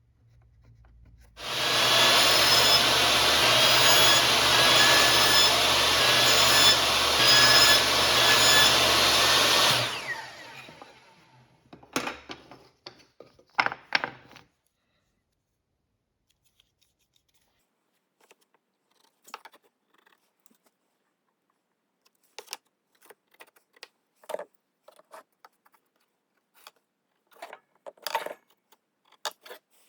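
A woodworking power tool runs steadily with a low hum for about eight seconds, then winds down. A few sharp knocks follow, then scattered light clicks and taps of wood being handled.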